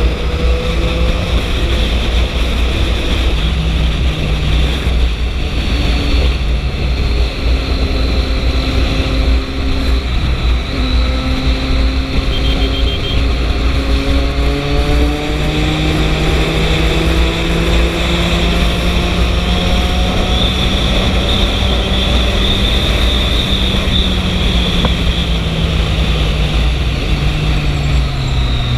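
Triumph 675 inline-three motorcycle engine running under way. Its pitch climbs steadily through the middle and drops again near the end, over a constant low rumble.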